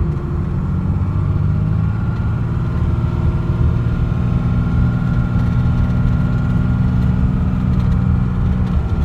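Dodge pickup truck's engine idling steadily, its note stepping up slightly about two seconds in.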